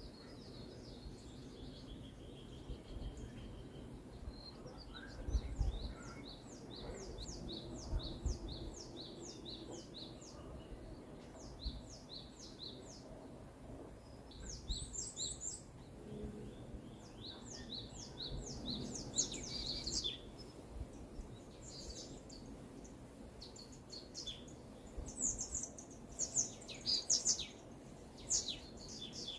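Forest songbirds singing: one bird repeats a long run of short, high, down-slurred notes, about three a second, and other high chirps join near the end. A faint low rumble runs underneath.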